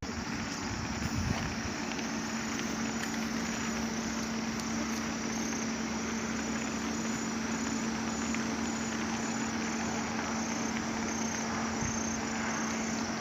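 Insects chirping in regular high pulses over a constant rushing noise and a steady low hum.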